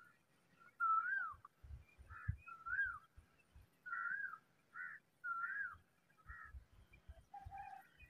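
A bird calling a clear whistled note that rises and then falls, repeated about once a second, with two lower notes near the end. Soft low thumps sound underneath.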